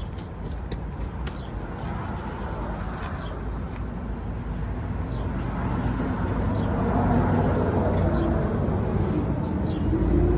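Low rumble of a motor vehicle, growing steadily louder, with a few faint clicks over it.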